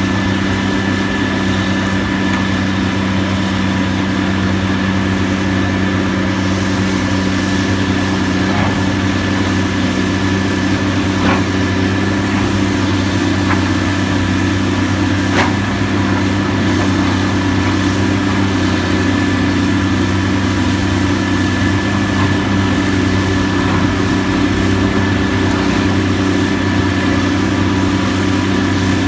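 Heavy demolition machine's engine running steadily with a constant hum, with a few faint knocks.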